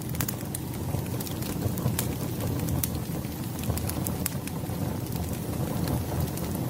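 Wood fire burning: a steady low rumble with scattered sharp crackles and pops, a few a second.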